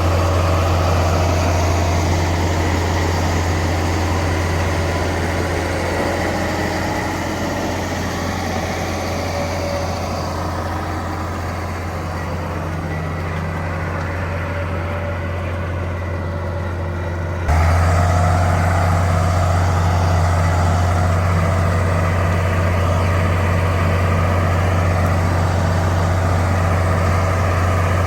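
Heavy diesel engine of construction machinery running steadily with a strong low hum. About 17 seconds in, the sound jumps abruptly louder, as at a cut.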